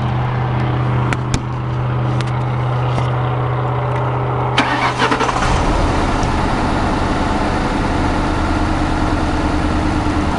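A 2006 Ford Crown Victoria Police Interceptor's 4.6-litre V8 being started, heard from inside the car: a steady low hum and a couple of clicks, then about four and a half seconds in the starter cranks and the engine catches and runs at idle. The owner describes the idle as having a jitter and shake.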